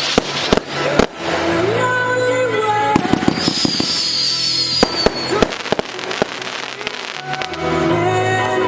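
Fireworks going off in a series of sharp bangs and cracks, with quick clusters of reports about a second in and again around three seconds in, over music.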